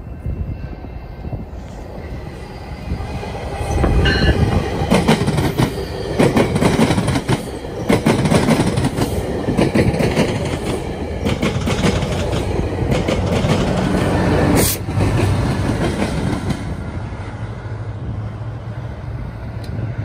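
GO Transit bilevel commuter train passing close by, cab car leading: steady wheel clatter on the rails with some brief squeal, growing loud about four seconds in and easing off after about sixteen seconds, leaving a steady low drone near the end.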